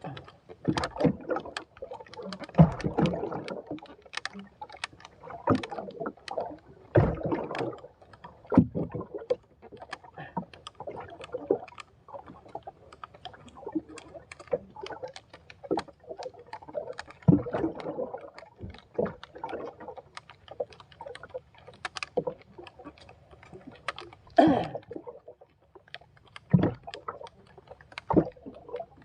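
Water splashing and sloshing around a small fishing boat, with scattered sharp knocks and clicks coming at irregular intervals.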